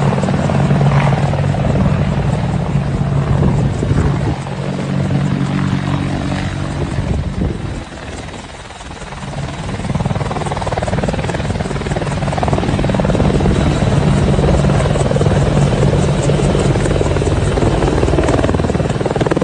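AH-64 Apache helicopter running, a steady rotor and turbine-engine sound with a low hum. It dips in loudness about eight seconds in, then builds back up.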